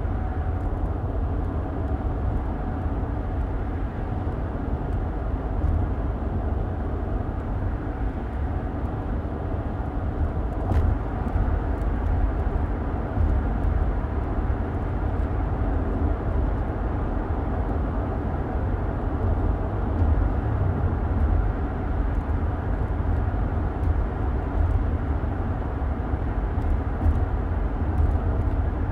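Car driving along: a steady low rumble of road and running noise that holds at an even level throughout.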